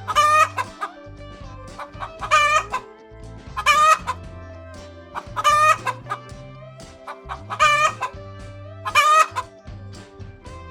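Chickens calling: six short, loud, wavering calls about one to two seconds apart, over background music.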